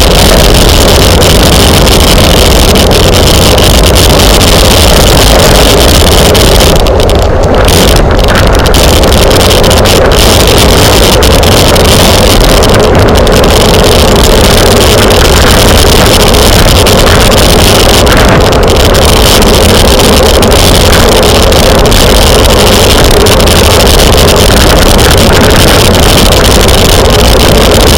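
Loud, steady wind buffeting on the microphone of a camera moving with a racing bicycle, a dense rumble that covers everything else.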